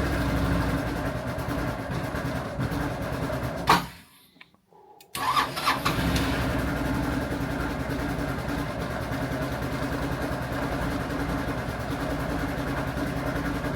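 1999 Honda Helix scooter's 250 cc single-cylinder four-stroke engine cold-starting at 1°F and running. There is a sharp click about four seconds in and a second of near silence, then the engine runs steadily at idle.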